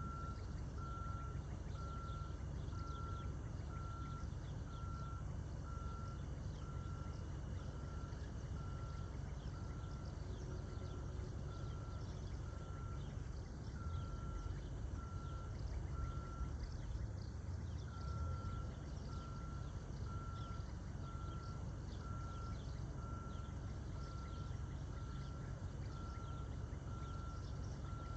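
Vehicle reversing alarm beeping steadily, a bit more than one beep a second, with a short pause a little past halfway, over a continuous low rumble.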